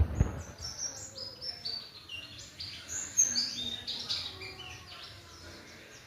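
White-eye (pleci) singing a fast twittering song of high, quick, mostly falling chirps, which thins out near the end. A single knock sounds at the very start.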